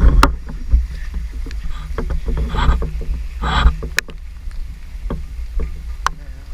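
Feet wading through shallow floodwater, with two splashing sloshes about two and a half and three and a half seconds in and scattered small clicks, over a steady low rumble of wind on the microphone.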